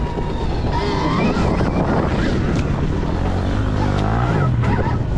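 Wind buffeting the microphone while riding a Stark Varg electric dirt bike, with the electric motor's whine gliding up and down about three to four seconds in.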